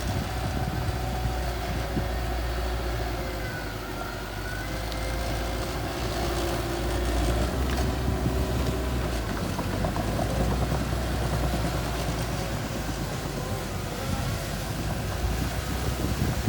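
Mini bulldozer's diesel engine running steadily as it works.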